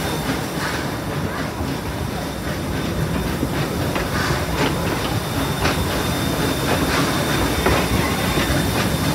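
Steam train rolling along the track: a steady rumble of wheels on rail, with irregular clicks from the rail joints.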